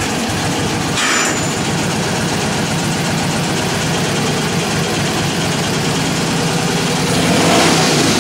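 1947 Indian Chief's freshly rebuilt, warm flathead V-twin running steadily just after starting, with a brief blip about a second in and picking up revs near the end.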